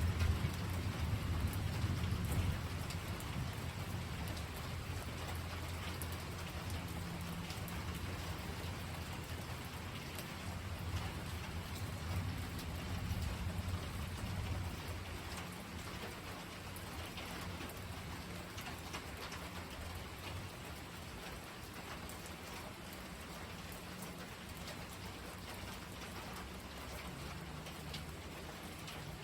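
Steady rain falling with scattered drop ticks, while a long roll of thunder rumbles low at the start and fades away over about the first half.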